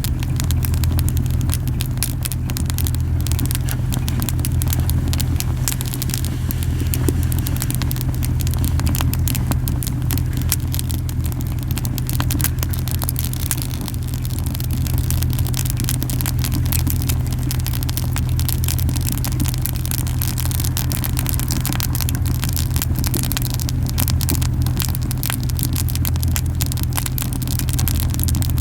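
Camellia wood burning hard in a campfire: dense, irregular crackling and popping over a strong, steady low rumbling of the flames, the rumble heavy because the fire is burning very hot.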